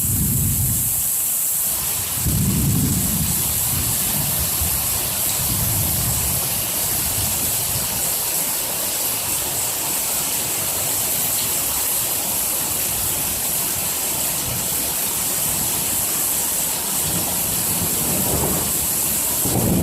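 Heavy rain falling steadily in a thunderstorm, with low rolls of thunder over the first several seconds. A louder burst of thunder starts near the end.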